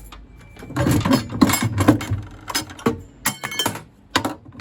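Small metal parts clattering and clinking while being handled during the scrapping of a boiler. There is a quick, irregular run of sharp knocks and rattles, with a few louder clanks near the end.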